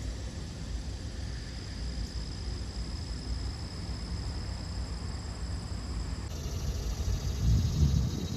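Outdoor background noise: a steady low rumble with a faint, thin high-pitched whine over it. The rumble swells briefly near the end.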